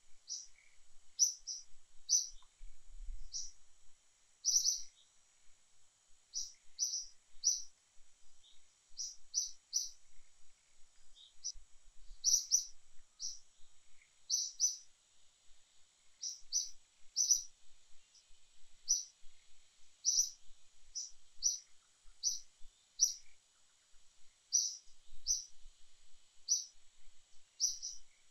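A bird chirping over and over: short, high chirps at an uneven pace of about one or two a second, over a steady high-pitched hum.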